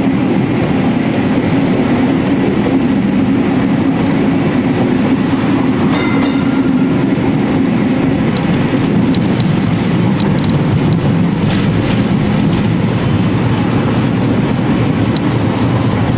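Streetcar running along its rails, heard from on board: a steady rumble of the motors and wheels with some rail clatter. There is a brief high ringing tone about six seconds in.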